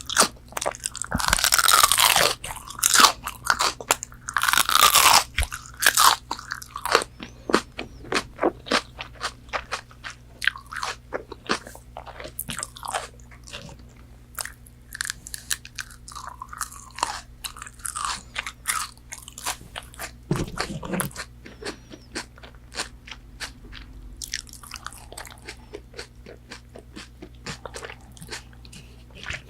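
Crunchy bites into breaded McDonald's chicken nuggets close to the microphone, two long loud crunches in the first few seconds, followed by steady chewing with quick wet clicks that grows quieter later on.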